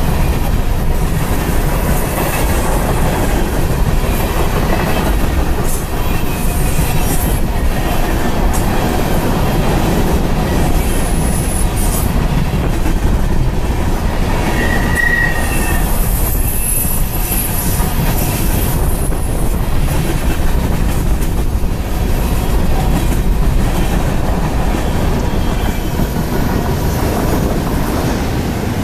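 Freight train cars rolling past: a steady loud rumble of steel wheels on rail with scattered clicks, and a brief high wheel squeal about halfway through.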